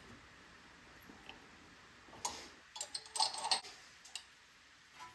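Metal engine parts clicking and clinking as they are handled and fitted by hand: a quick cluster of sharp clicks and clinks between about two and three and a half seconds in, with a few single clicks around it.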